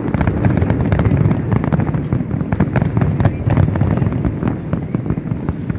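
Aerial fireworks display: many shell bursts popping and crackling in quick succession over a continuous low rumble.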